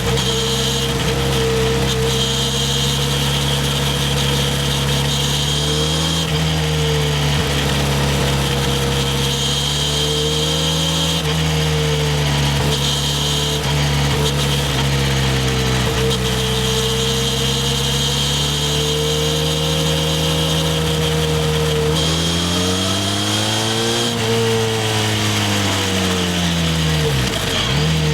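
Harley-Davidson X350's parallel-twin engine under way, the engine note rising and falling gently with throttle. Near the end the revs climb higher, then drop sharply for a moment before picking up again.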